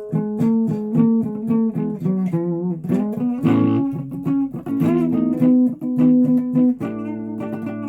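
Guitar being played: a quick run of plucked single notes, some bent in pitch, over held lower notes.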